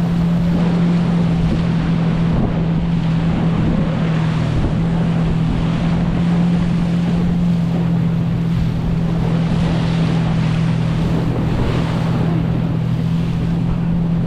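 Motorboat engine running at a steady speed, a constant low drone, over wind on the microphone and rushing water.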